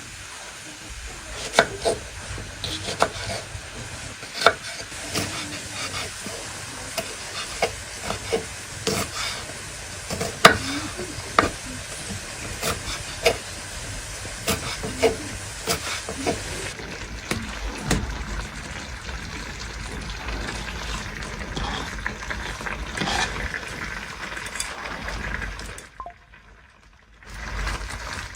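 Food sizzling in a cooking pan while a metal spoon stirs it, knocking and scraping against the pan again and again. The sizzle thins out partway through, and the sound drops away near the end.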